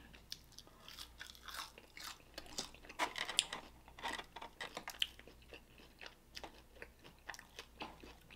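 Close-miked chewing and biting of fried chicken wings: irregular soft crunches, with a louder cluster about three seconds in.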